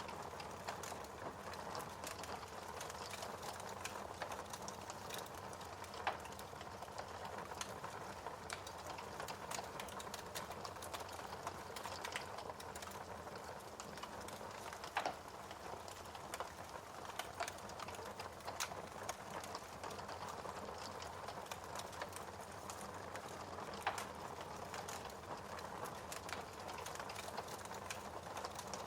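Wood fire in a fireplace crackling, a steady soft hiss dotted with frequent small pops, and a few louder snaps about six, fifteen and twenty-four seconds in.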